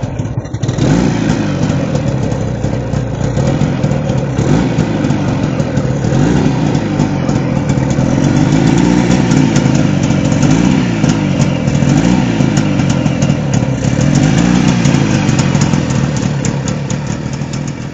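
DKW Supersport 600's water-cooled 600cc two-stroke parallel twin running, its revs rising and falling again and again.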